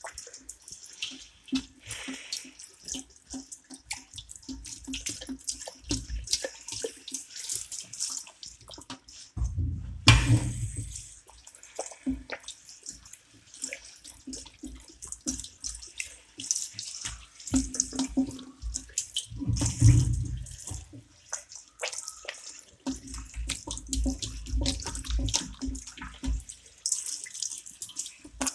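Water from a wall-mounted sink's tap running and splashing unevenly into the basin, with a couple of dull thumps about ten and twenty seconds in.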